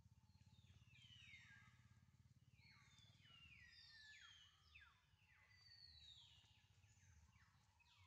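Faint bird calls: a run of descending whistled notes, one after another, over a low steady hum.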